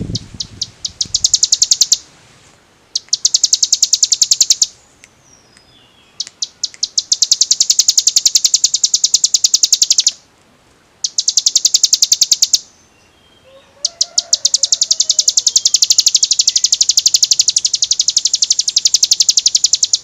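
A ciblek gunung (hill prinia) singing its 'ngebren' drill song: bouts of very rapid, high repeated notes that speed up into a continuous buzzing trill, five bouts with short pauses between them, the last one the longest.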